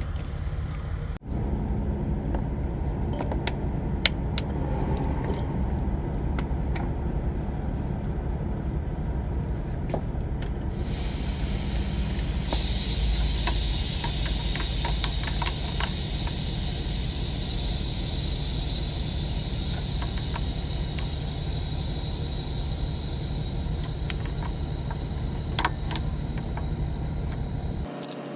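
Steady hiss of pressurized gas in a truck's air-conditioning line under a leak test, starting about a third of the way in and holding steady, over a steady low rumble, with a few light handling clicks.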